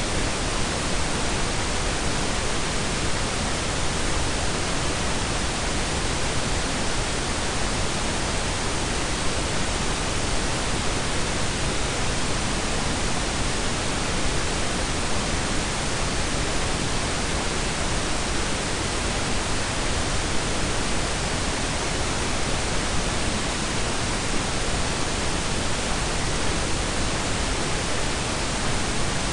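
Steady blend of pink and brown noise: an even, unchanging hiss with a deep rumbling base, cut off above about 10 kHz.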